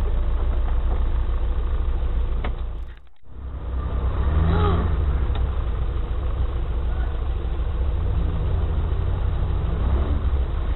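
Off-road vehicle engine running steadily with a deep rumble. The sound drops out sharply for a moment about three seconds in.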